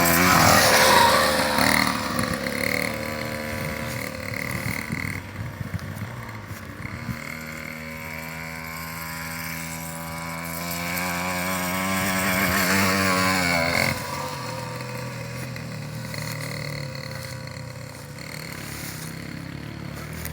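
Motocross bike engine revving up and down, loudest at the start. It builds to a high rev again later and then drops off suddenly about fourteen seconds in.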